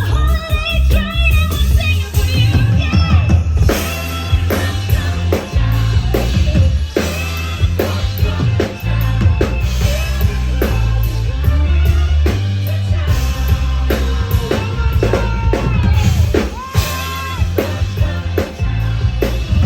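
Live band playing amplified pop-rock music, with a drum kit, a heavy bass line and a singing voice.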